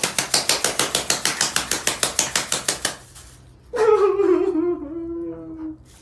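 Rapid, evenly spaced knocking of kitchenware, about nine knocks a second for some three seconds, then a drawn-out vocal sound that slides down in pitch.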